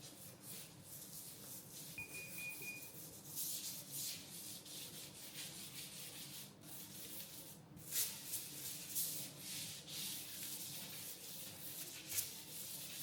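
Cleaning scrubbing: repeated rubbing strokes against a surface, a soft scraping hiss over and over, with a couple of sharper clicks in the second half.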